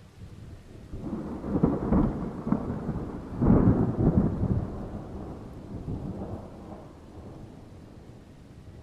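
A roll of thunder: a low rumble builds, swells loudest twice, then dies away slowly.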